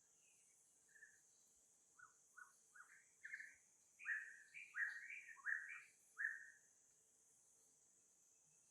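An animal calling: a run of about a dozen short, high chirps that come quicker and louder a few seconds in, then stop.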